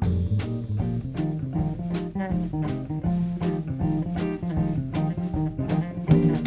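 A band playing live: a guitar line over bass and a drum kit, a steady run of quick notes with regular drum hits.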